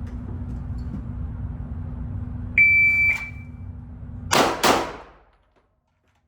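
A shot timer gives a single half-second start beep, and about a second and a half later a pistol fires two quick shots about a third of a second apart: a drawn first shot and a fast follow-up. A steady low hum underlies it until the shots.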